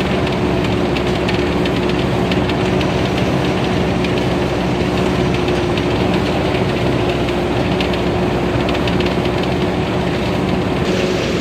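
TAMCO Onew Pro S9000 combine harvester with its Hino J08C 260 hp diesel engine running steadily under working load. The engine and machinery give a steady hum, with a fast, continuous mechanical clatter over it.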